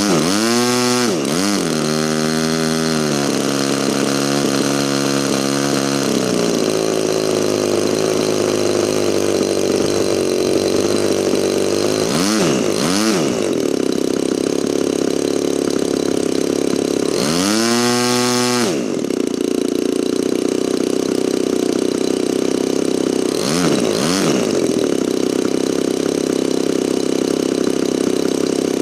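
DLE 35RA 35cc two-stroke single-cylinder gasoline engine in a model aeroplane on its first run. It is idling and being blipped up and down on the throttle several times, with one longer, higher run-up about two-thirds through. It runs smoothly, as a good-running new engine.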